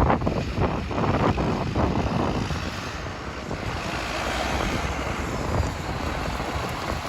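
2010 John Deere 6830 tractor's six-cylinder diesel engine running as the tractor drives, with wind buffeting the microphone. The sound jumps up at the start with uneven pulses for about two seconds, then settles to a steady rush.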